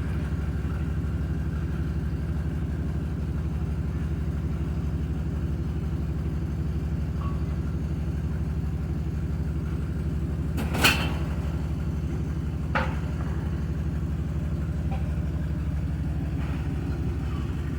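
Dodge Ram 1500 pickup engine idling steadily, with a sharp knock about 11 seconds in and a lighter one about two seconds later.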